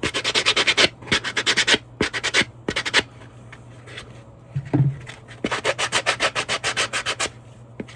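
Hand sanding along the edge of a resin casting: quick back-and-forth scraping strokes in several short runs, with a pause of about two seconds midway.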